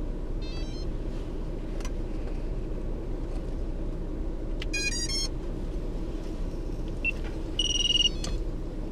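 Runs of short electronic beep tones from the FPV quadcopter's electronics powering up on a fresh battery: a quick run, then a stepped run of tones, then a single held beep, the loudest, just before the end. They sound over a steady low rumble.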